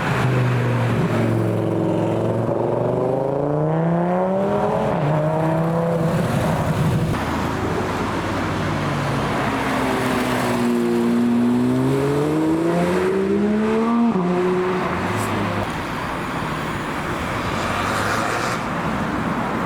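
Car engines accelerating away, twice: each engine note climbs in pitch and then drops sharply at an upshift, about five seconds in and again near fourteen seconds. A lower, steadier engine note from other cars runs underneath.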